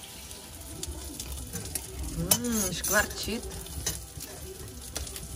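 Salted mackerel sizzling on a grill over a fireplace fire, with sharp crackles here and there.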